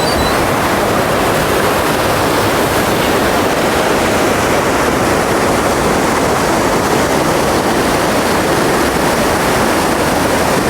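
Pistyll Rhaeadr waterfall: a loud, steady rush of falling water.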